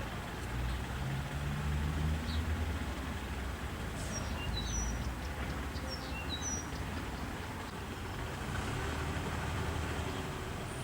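Outdoor ambience: a steady low rumble like distant vehicle traffic, with a few short, high bird chirps in the middle.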